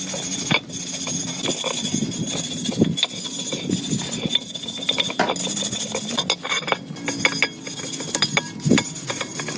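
Small metal tools and parts clinking and knocking against each other in irregular, repeated strikes.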